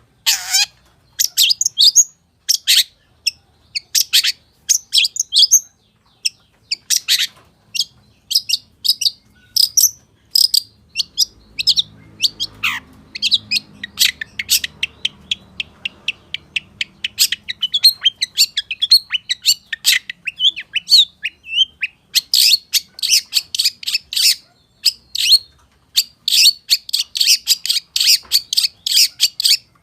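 Long-tailed shrike (cendet) singing a fast, varied song packed with mimicked calls of other birds: a steady stream of short chirps and whistles, breaking into dense rapid chattering runs in the last third.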